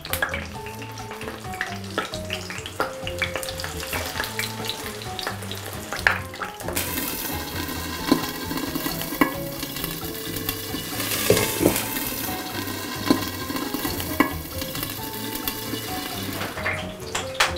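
Potato patties frying in hot oil in a pan, sizzling, much louder from about seven seconds in, with a few light clicks.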